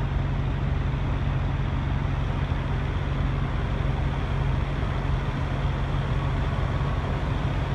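Steady vehicle engine hum with a constant wash of road or traffic noise, unchanging throughout.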